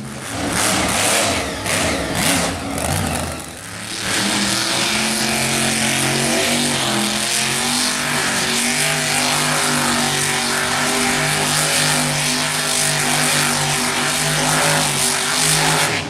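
Monster truck engine revving in surges for about four seconds, then held at high revs with a loud, steady note.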